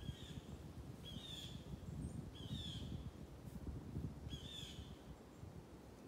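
A bird calling four times, each call a short note that rises and then drops, over a steady dull rumble.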